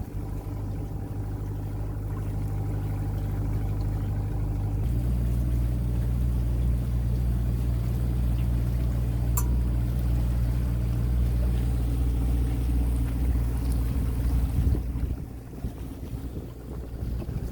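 Small boat's outboard motor running under way. It speeds up about five seconds in and eases back near the end, with wind noise over it.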